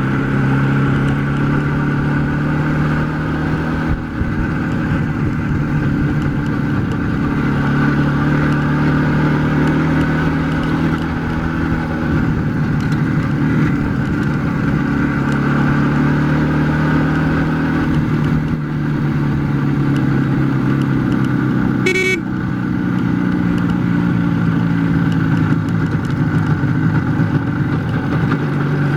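IZh Jupiter 4 two-cylinder two-stroke motorcycle engine running under way, its pitch rising and falling several times as engine speed changes, with both cylinders firing evenly. A short toot sounds about 22 seconds in.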